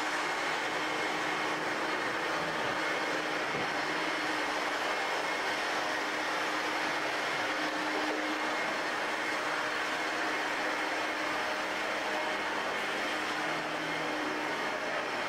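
Vacuum cleaner motor running steadily with a constant whine and rush of air.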